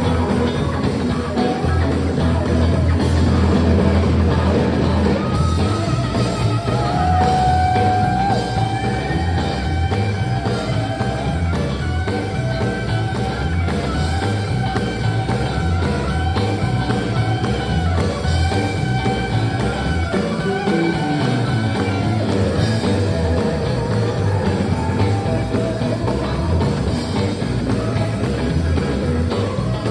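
Live sacred steel gospel band playing: long held, sliding steel guitar lines over a steady bass and drum groove, loud and continuous.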